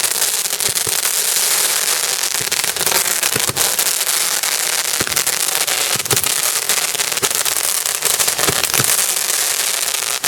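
Firework giving off a steady hiss thick with fine crackles, dying away right at the end.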